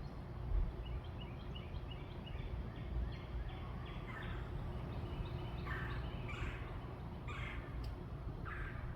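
Bird calling: a run of quick, short, high notes, then several louder, harsh calls spaced about a second apart, over a steady low background rumble.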